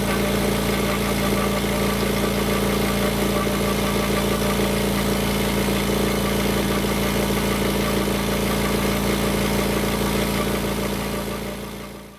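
A machine running steadily with a low, even hum, fading out near the end.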